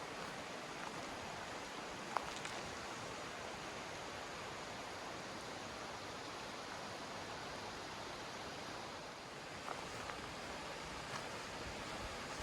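Steady rushing of a river, with a few sharp clicks of rocks knocking underfoot, the loudest about two seconds in and several more near the end.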